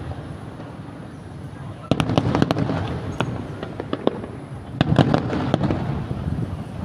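Aerial fireworks bursting with sharp bangs and crackling over a low rumble. Two clusters of bursts come about two seconds in and again about five seconds in.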